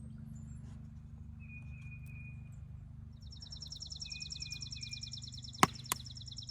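Birdsong: a long, rapid high trill and a few short chirps, over a steady low hum. About two-thirds of the way through come two sharp pops close together, the wood fire crackling as it catches on small pieces of wood.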